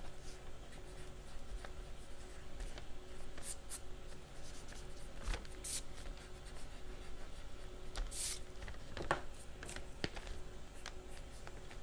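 Pencil and eraser working on watercolor paper: an eraser rubbing out a pencil mistake and pencil strokes, heard as scattered short rubbing and scratching strokes, a few of them louder hisses.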